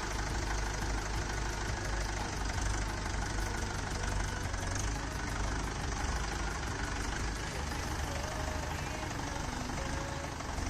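Mahindra 575 DI tractor's four-cylinder diesel engine running steadily at low speed as the tractor is driven forward in first gear.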